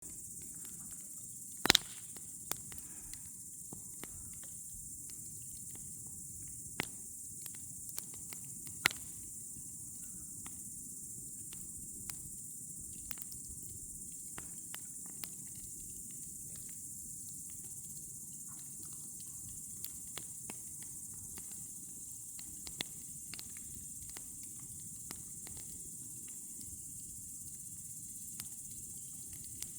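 Campfire burning with scattered sharp crackles and pops, the loudest about two seconds in, over a steady high-pitched chorus of crickets.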